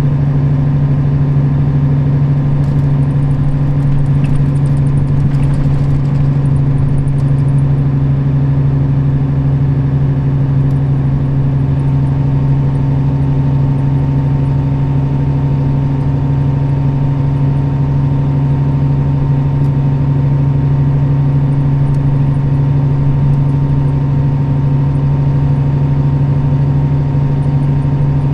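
Nissan Diesel KL-RA552RBN bus's diesel engine running at a steady, unchanging speed, heard inside the passenger cabin as a constant low drone with road noise.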